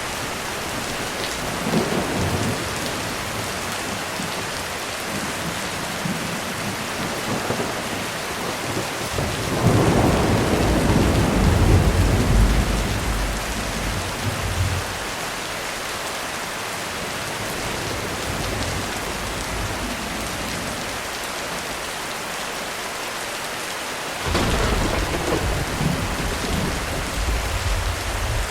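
Heavy rain drumming steadily on a roof, with rolling thunder: a long low rumble builds about ten seconds in and lasts several seconds, and another begins near the end.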